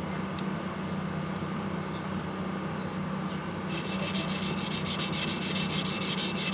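Yanagiba blade rubbed back and forth on a wet whetstone, grinding the kiriha bevel flat. Faint at first, then about four seconds in it turns into quick, regular strokes, about five a second.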